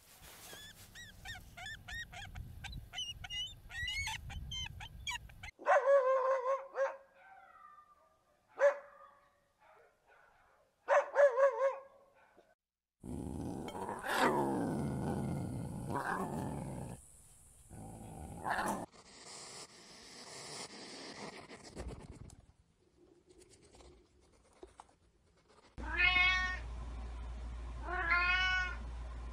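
A sequence of animal calls: high-pitched, repeated bald eagle calls at the start; a lion's long growl with falling pitch about halfway; and two meows from a domestic cat near the end. Other short animal calls fall between them.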